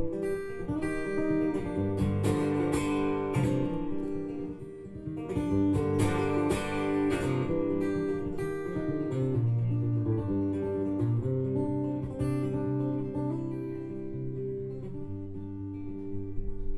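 Acoustic guitar strumming chords in an instrumental passage of a song, with no singing; the strumming is busier at first and eases into held chords and quieter playing in the second half.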